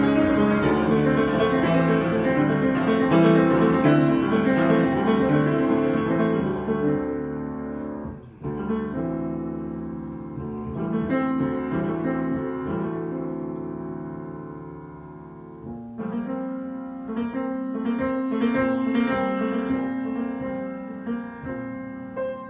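Piano playing an improvisation in sustained chords. The full, ringing chords thin and fade about eight seconds in, stay softer for a while, then a new passage starts on a fresh chord around sixteen seconds.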